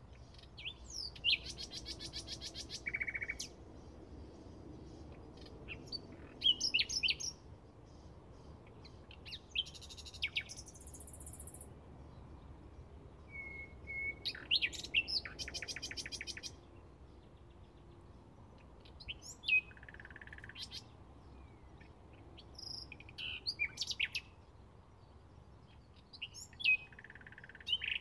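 Bluethroat singing: short, varied song phrases every few seconds, mixing sharp high whistled notes and sweeps with fast runs of rapidly repeated ticking notes.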